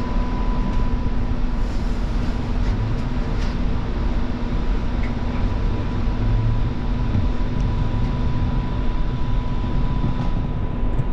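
Alstom Citadis Spirit light-rail vehicle running, heard from inside the car as it pulls away from a station: a steady low rumble with a constant high hum, and a few faint clicks.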